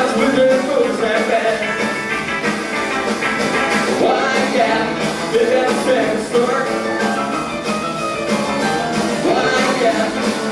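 Live rock band playing: drums, guitar and a sung or lead melody line.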